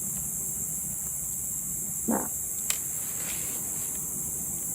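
Steady outdoor insect chorus of crickets, high-pitched and continuous. About two seconds in there is one brief knock, the loudest sound, and a sharp click follows just after.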